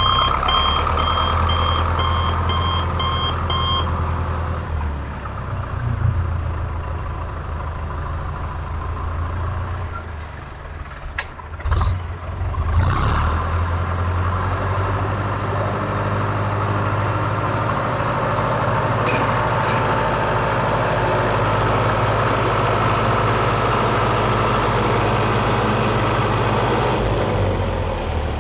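A few seconds of evenly repeating reversing-style beeps, then an engine running steadily at idle, with a short spell of knocks and clatter about eleven seconds in.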